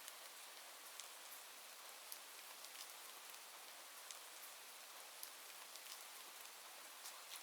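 Faint, steady rain hiss, with a few scattered sharp ticks through it.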